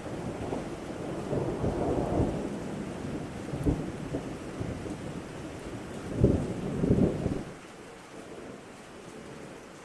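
Thunder rolling over steady rain. A rumble swells about a second in and a sharper crack comes near the middle. The loudest peals come about six and seven seconds in, then die away, leaving the rain.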